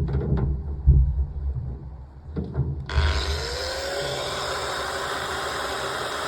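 A power tool starts abruptly about three seconds in, its motor tone rising as it spins up, then runs with a steady, hissing sound, working on steel plate.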